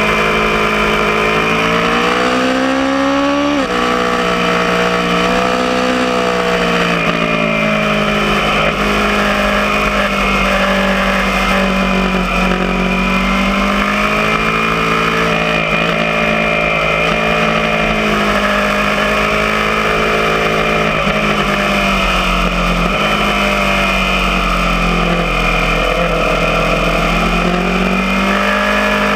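Aprilia Tuono motorcycle engine at speed on a race track. Its pitch climbs under hard acceleration, drops sharply at a gear change about three and a half seconds in, then rises and falls several more times as the throttle is opened and closed through the corners.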